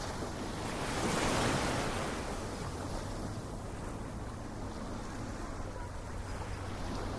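Ocean waves: one wave swells and breaks about a second in, then washes out into a steady surf hiss.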